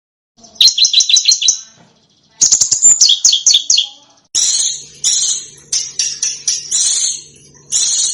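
Small songbirds singing fast runs of sharp, high repeated notes: a brief silence, then three bursts, the last becoming a string of harsh, separate chips.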